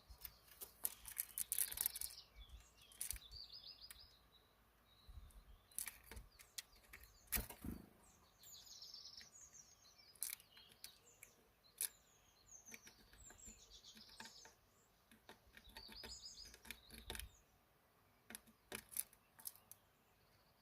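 Small birds chirping and twittering in short, high phrases, with frequent sharp clicks and taps among them.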